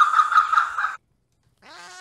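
An Indian peacock gives a rapid run of harsh calls, about five a second, that stops abruptly about a second in. After a short silence a cat starts a meow that rises in pitch near the end.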